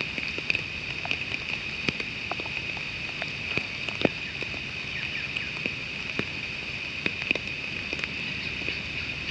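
Rain falling: irregular drops ticking sharply over a steady hiss.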